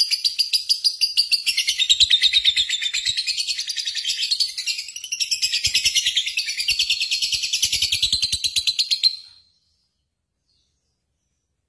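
A bird chirping rapidly and steadily, about seven high chirps a second, fading out about nine seconds in.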